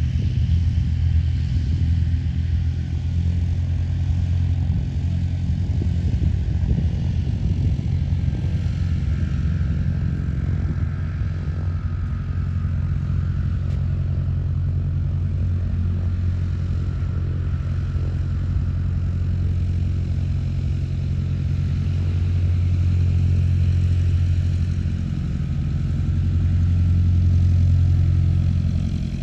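An engine running steadily with a low drone, swelling a little twice in the last third.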